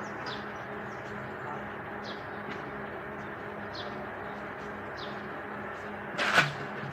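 A bird gives short, high, falling chirps about once a second over a steady low hum. Near the end there is one loud, sharp sound.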